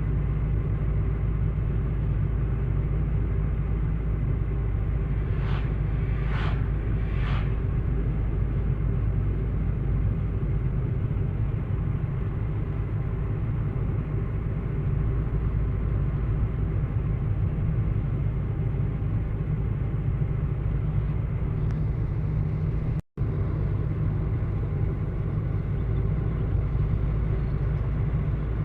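Steady low rumble, with three short rushing sounds about six seconds in and a momentary dropout near the end.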